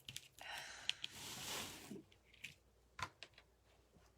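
Rustling of wreath-making materials being handled, lasting about a second and a half, with a few light clicks at the start and one sharp click about three seconds in.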